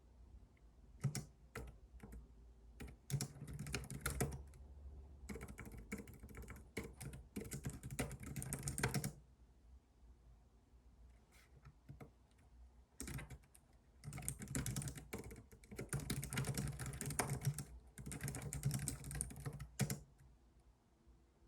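Computer keyboard being typed on in quick runs of key clicks: a long stretch of typing, a pause of a few seconds, then another long stretch, over a steady low rumble.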